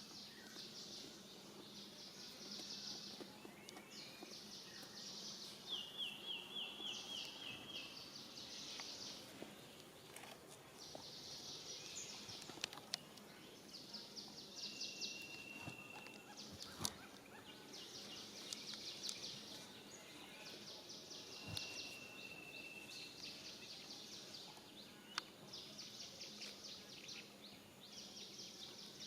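Outdoor ambience of high, chirring insect trills, each about a second long and repeating over and over, with a few short, steady whistled notes in between.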